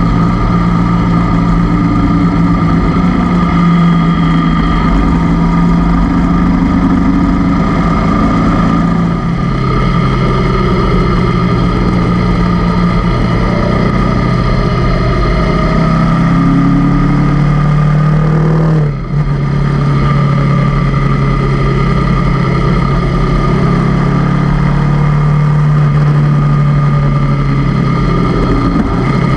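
Honda CB500X parallel-twin motorcycle engine running on the road, its pitch rising and falling with the throttle, with a brief dip about nineteen seconds in.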